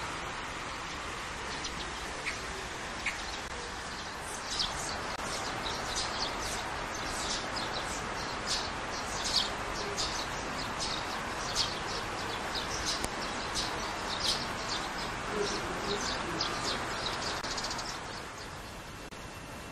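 Birds chirping: a run of short, high chirps, several a second, over a steady background hiss. The chirping stops near the end and the hiss drops.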